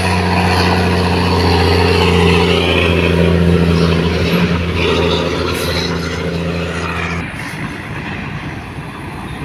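Loaded truck's diesel engine labouring up a steep climb in low gear, a steady low drone that drops away about seven seconds in.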